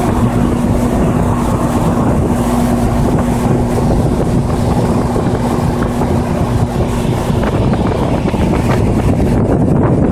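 Outdoor unit of a 2004 Payne 3-ton, 10 SEER teardrop heat pump running in heating mode: a steady compressor hum with the outdoor fan's air rushing over the microphone. The hum tone drops out about three-quarters of the way through while the rush of air carries on.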